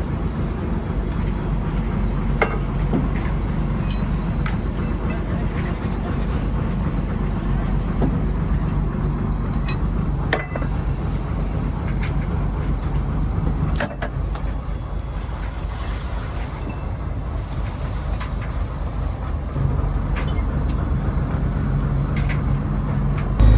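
Fishing trawler's engine running steadily with a low drone, with occasional sharp knocks and clicks on board.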